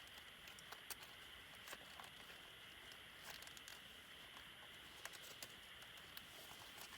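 Wood campfire crackling faintly: irregular sharp pops and snaps over a steady soft hiss.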